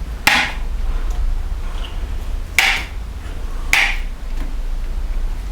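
Three sharp snaps a second or more apart, with another at the very end, as wire mesh for a cement stove base is trimmed with cutters. A steady low hum runs underneath.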